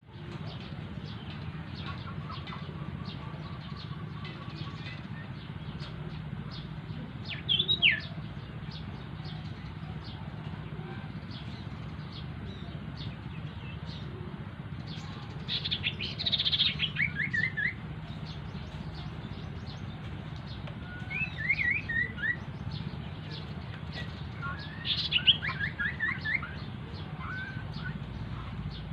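A small songbird calling in four short bouts of sharp, rapid chirps, with notes falling in pitch. A faint trill comes early, and a steady low hum runs underneath.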